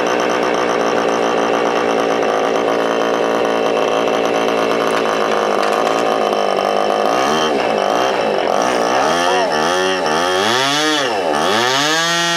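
OS .46AX two-stroke nitro glow engine of an RC P-51D Mustang model running loud and high-pitched, steady at first. From about seven seconds in, its pitch rises and falls again and again, about once a second.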